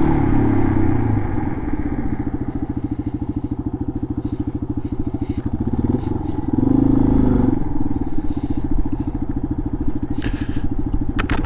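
Dual-sport motorcycle engine running at low revs with an even, rapid firing beat, getting louder briefly about seven seconds in.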